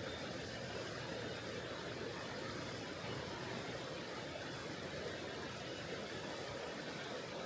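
Tonghou River, a mountain river, flowing with a steady, even rush of water.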